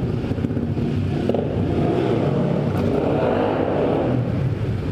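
Motorcycle engine running under way, its revs rising and falling in the middle.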